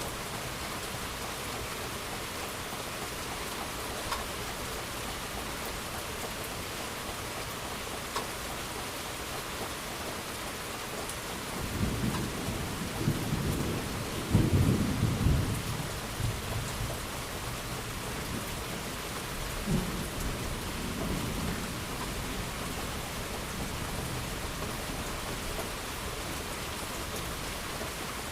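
Steady rain falling, with a peal of thunder rumbling in about twelve seconds in, swelling to its loudest a few seconds later and dying away, then a smaller rumble around twenty seconds in.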